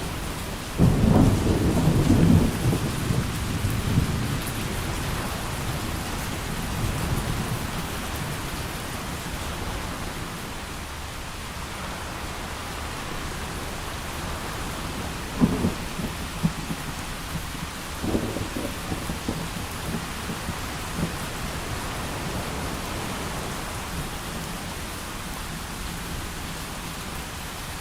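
Steady heavy rain with thunder: a loud crack and rumble about a second in that dies away over a few seconds, then two shorter rumbles about halfway through.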